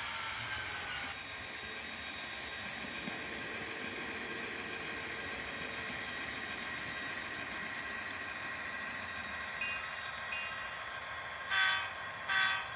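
A train running with a steady hiss and hum. A falling horn tone dies away about a second in, and two short horn blasts sound near the end.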